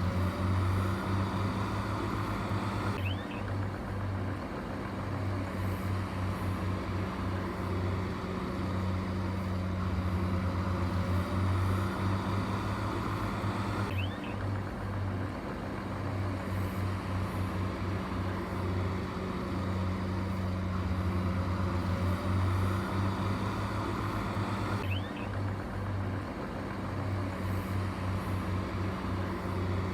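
Heavy diesel engine running steadily with a low drone; the same stretch of sound repeats about every eleven seconds.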